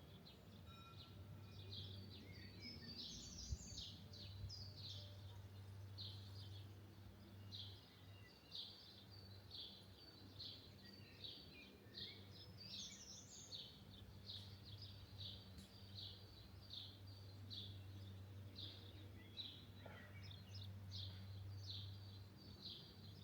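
Small birds chirping again and again in quick short notes, with a couple of higher rising calls, over a faint steady low hum.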